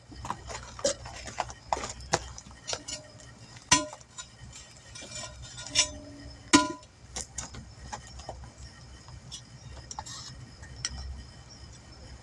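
Irregular metallic clinks and knocks of tools and parts being handled during a tire change, a few of them ringing briefly, the loudest a little past halfway.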